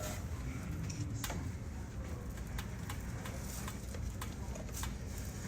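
Footsteps on a hard floor, a sharp step about every half second or so, over a steady low hum.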